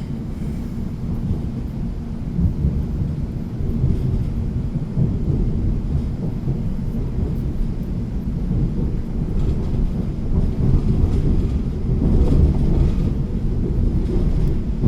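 Low, steady rumble of a South Western Railway commuter train running along the track, heard from inside the passenger carriage, growing a little louder in the second half.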